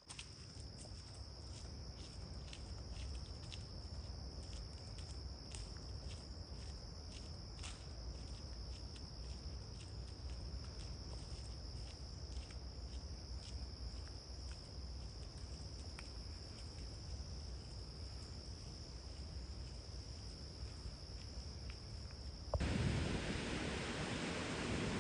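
Field insects, crickets or katydids, trilling in one unbroken high-pitched drone over a low wind rumble on the microphone, with light clicks in the first half. About 22 seconds in it cuts off suddenly to louder rushing wind noise.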